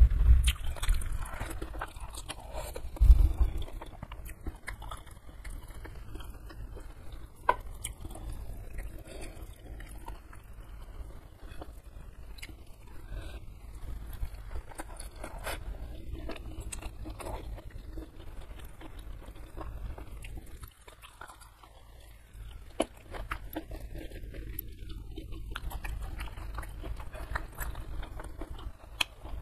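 Close-miked chewing and wet mouth sounds of someone eating mouthfuls of rice and stir-fried genjer greens by hand, with many small clicks. There are a couple of low thumps in the first second and about three seconds in.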